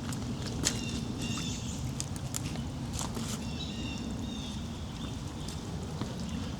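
A bird calls in short repeated high phrases about once a second, over a steady low rumble. Scattered sharp clicks and scuffs of footsteps on creek stepping stones come through as well.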